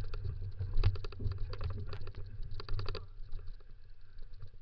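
Dog scooter running along a dirt race trail: fast, irregular rattling and clicking over a steady low rumble, which eases off about three seconds in.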